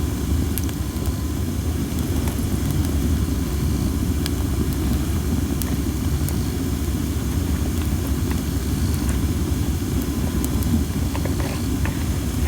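Cherry-wood campfire with scattered small crackles and pops and a hiss from the under-dried wood, under a steady low rumble of strong wind on the microphone.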